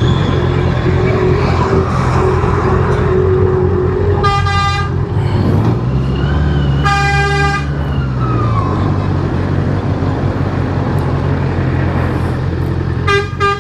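Honda CBR650R's inline-four engine running steadily under way, its pitch dipping and rising again around the middle. A vehicle horn sounds twice, about four and seven seconds in, each blast under a second, with a brief third toot near the end.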